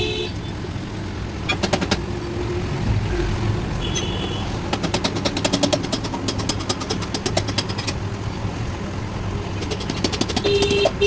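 Bursts of rapid mechanical rattling, three times, the longest about three seconds, over a steady vehicle engine rumble, with a brief horn toot near the end.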